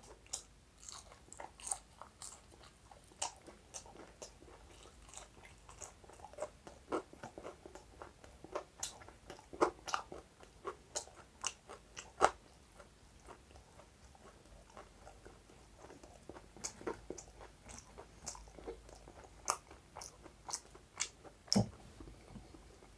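Close-up crunching and chewing of crisp deep-fried chicken pakoras: irregular crackly bites and chews, with a quieter pause about halfway through.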